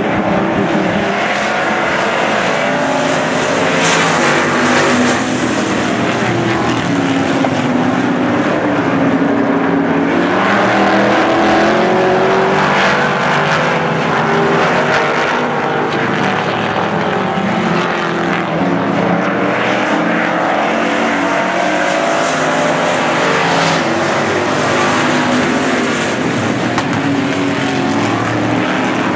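A field of Pure Stock race cars running hard around the oval, several engines at once, their pitch rising and falling as they accelerate and lift and swelling as the pack passes by.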